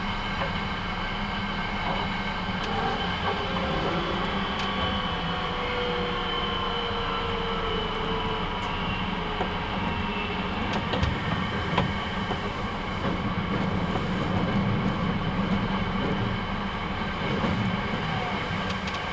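Hankyu 9300 series electric train running, heard from inside the car: a steady rumble of wheels on rail with motor tones, and a couple of sharp clicks a little past halfway.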